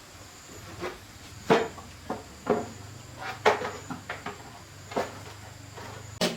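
A series of irregular, sharp clicks and knocks, the loudest about a second and a half in and again two seconds later, over a faint low hum that stops just before the end.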